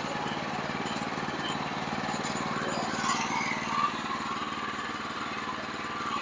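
Sawmill engine running steadily at a constant speed, with a couple of brief louder sounds about three to four seconds in.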